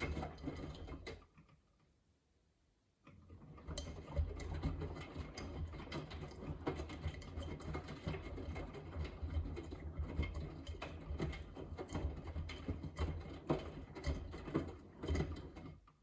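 Miele W3985 washing machine drum tumbling the wash: motor hum with laundry and water clicking and sloshing in the drum. It stops about a second in, pauses for under two seconds, then turns again for about thirteen seconds and stops at the end, the drum's alternating turn-and-pause rhythm during the main wash.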